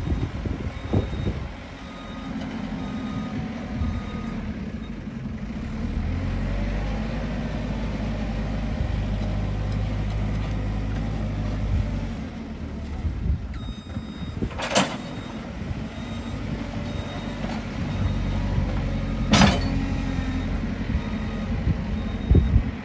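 Heavy diesel engines of the recovery vehicles running steadily, with two short sharp bursts about fifteen and nineteen seconds in.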